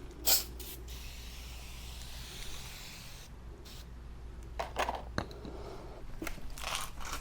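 Rubber motorcycle tire being pushed down by hand against the wheel rim: a sharp scuff just after the start, then a few short rubbing scuffs later on as the bead fails to give.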